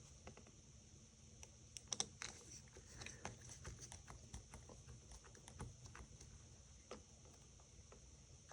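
Faint, scattered clicks and ticks of a small precision screwdriver and tiny screw against an iPhone 5's frame, with a cluster of sharper clicks about two seconds in. The screw is the wrong one for the hole and won't go in.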